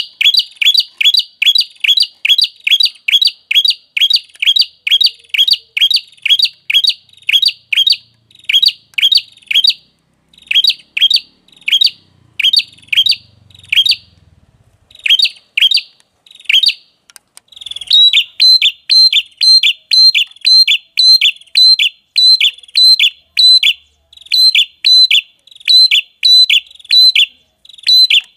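Lure-call recording of the red-headed prenjak: loud, sharp chirps repeated about three a second in runs with short pauses, each note a quick downward sweep. About two-thirds of the way through, the notes change, each taking on a higher, clipped accent at its start.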